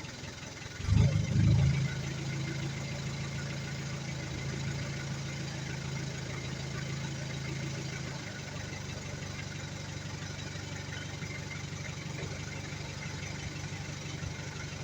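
Nissan TD42 inline-six diesel engine running: a brief loud rev about a second in, then a steady idle that eases slightly about eight seconds in.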